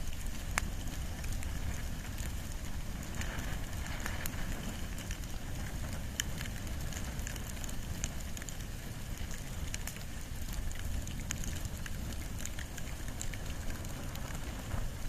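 Wood and bamboo campfire burning, with a steady low rumble of flame and frequent sharp, irregular crackles and pops.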